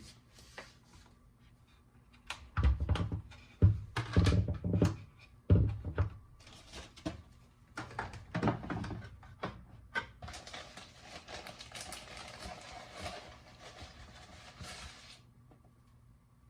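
Household objects being handled: a run of knocks and thumps, then more clatter, then a steady rushing noise for about five seconds that stops near the end.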